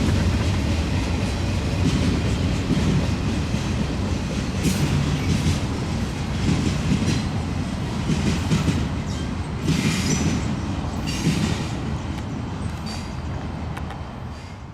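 Freight train rolling past: wheels rumbling steadily on the rails, with clickety-clack and occasional brief wheel squeals, fading out near the end.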